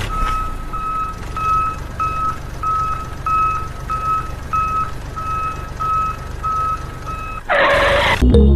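Vehicle reversing alarm beeping steadily, about two beeps a second, over a low engine rumble; near the end the beeping stops and a short loud burst of noise follows.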